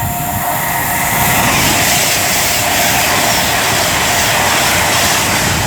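Class 390 Pendolino electric train passing through the station, a loud steady rush of wheel and air noise that builds over about the first second and then holds.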